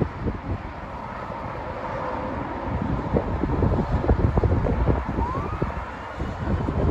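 Gusty wind buffeting the microphone in uneven rumbling bursts. A faint siren wails in the distance, with a rising glide about five seconds in.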